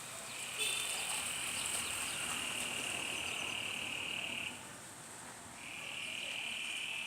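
A chorus of frogs calling from the floodwater: a steady high-pitched trill that starts under a second in, stops for about a second past the middle, then starts again.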